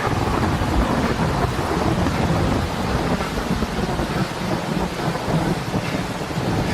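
Thunderstorm sound effect: steady heavy rain with thunder rumbling low underneath.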